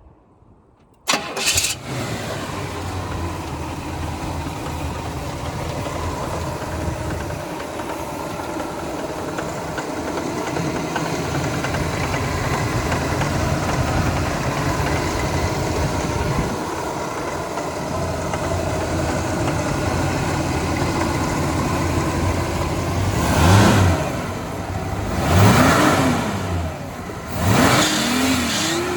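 1966 Pontiac GTO's 389 cubic-inch V8, breathing through a stainless exhaust, starts about a second in and settles into a steady idle. Near the end it is revved three times, each rev rising and falling in pitch.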